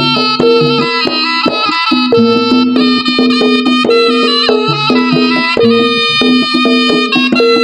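East Javanese jaranan ensemble music played loud through a PA sound system: a sustained, reedy melody line over a steady low drone and busy struck percussion.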